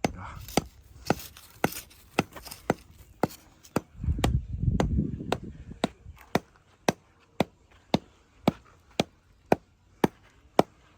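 A digging tool striking stony ground in an even rhythm, about two sharp blows a second. A low rumbling noise swells between about four and six seconds in.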